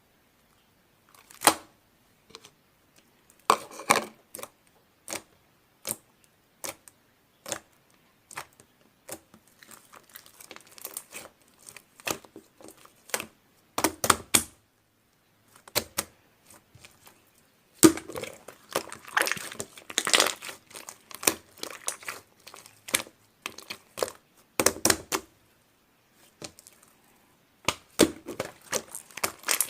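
Slime being squeezed and poked by hand close to the microphone: irregular sticky clicks and pops in clusters, with short pauses between.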